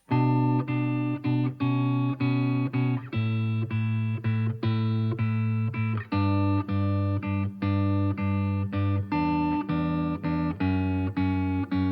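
Guitar intro of a pop-punk song: chords strummed in short, evenly spaced strokes, about three a second, changing chord about every three seconds, with no drums.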